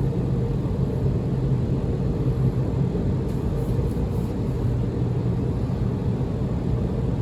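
Steady low rumble and hum of a tunnel car wash's machinery, heard from inside the car's cabin as it rides the conveyor, with a few faint hisses about three to four seconds in.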